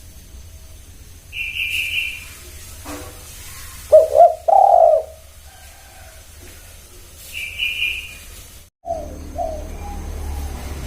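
Spotted dove (tekukur) cooing: a loud phrase of low coos about four seconds in and shorter coos near the end. A short higher chirp from another bird comes twice in between.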